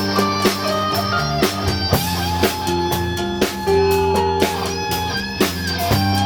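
Latin-fusion band playing live, an instrumental stretch with guitar to the fore over bass and a steady drum beat.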